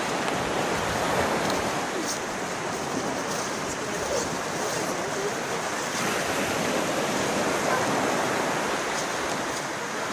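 Waterfall's rushing water, a steady, even rush with no breaks.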